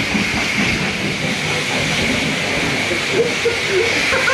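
Self-serve car wash spray wand hissing steadily as it sprays the car.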